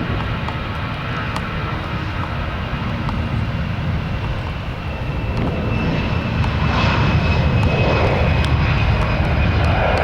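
Airliner jet engines at takeoff power, a loud deep steady rumble that grows louder about six seconds in, with a high whine rising above it.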